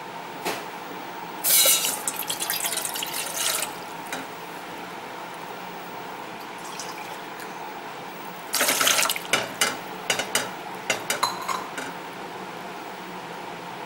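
Water running or splashing from a tap in two short spells of about two seconds and one second, followed by a few light clicks and clinks.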